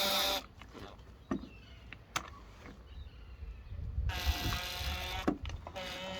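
A cordless electric screwdriver whirring in short bursts while driving screws, with a few sharp clicks of small metal parts being handled between the bursts.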